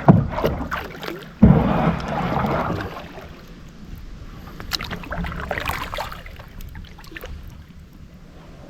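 Kayak paddling: the paddle dipping and splashing in shallow water, with two sharp knocks near the start, about a second and a half apart, then quieter strokes with small clicks and drips.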